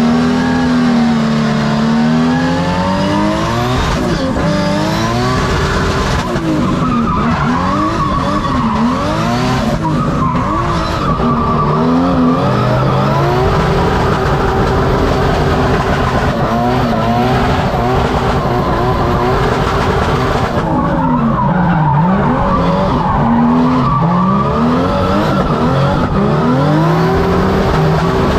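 Turbocharged Toyota JZ engine in a Nissan 350Z drift car, heard from inside the cabin, revving hard with its pitch rising and falling over and over and popping, as tyres squeal through a drift run. It is held in second gear because third will not go in, and it cuts at the rev limiter.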